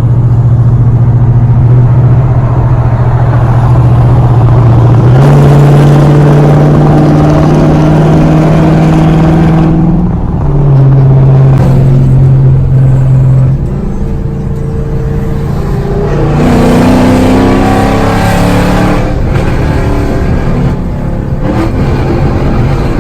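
Loud car exhaust, straight pipes joined by an X-pipe, droning at steady revs. The pitch steps up about five seconds in and drops back about ten seconds in. It eases off, then rises again as the car accelerates.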